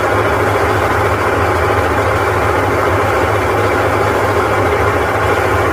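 Top-load washing machine in its final spin cycle, running with a loud, steady drone over a rapid low throb, which the customer likens to a helicopter landing. The technician traces the noise to a failing gearbox in the ten-year-old machine, one that only a gearbox replacement will cure.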